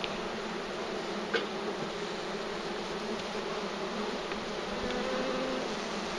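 Italian honeybees buzzing in a dense, steady hum around an open Langstroth hive, with a brief louder tone about five seconds in.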